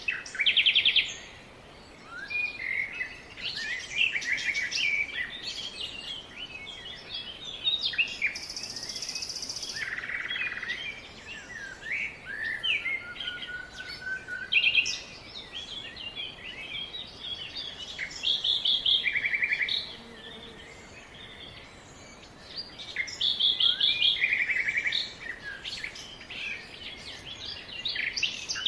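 Several wild birds calling and singing at once: overlapping chirps and quick trills, with a high buzzy call about eight seconds in. A faint steady background hiss sits underneath.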